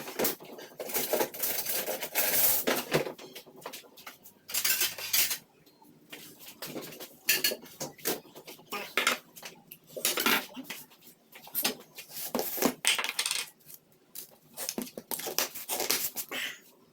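Utensils and dishes clinking and knocking against each other in irregular clusters, with short pauses in between.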